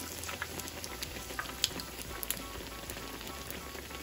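Besan-battered bread slices (bread pakora) deep-frying in hot oil: a steady sizzle with scattered small pops and crackles.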